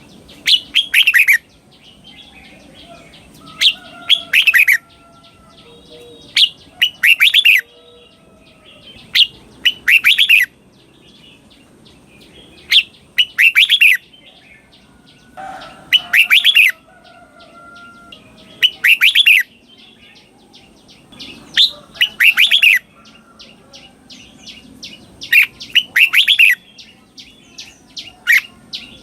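Red-whiskered bulbul singing its doubled song (เบิ้ล), a short run of bright, quick notes repeated about every three seconds, with fainter chirps between the phrases.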